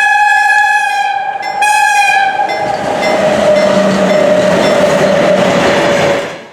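Locomotive horn sounding a high note, with a short break about a second and a half in, then dropping to a lower note held for several seconds, as a train rushes past. The sound cuts off abruptly near the end.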